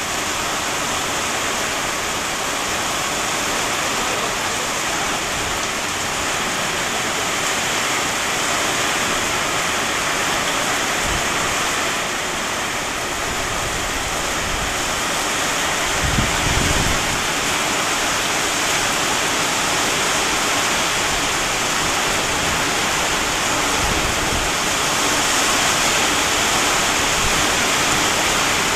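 Heavy rain pouring onto a street and parked cars: a dense, steady hiss, with a brief low rumble a little past halfway.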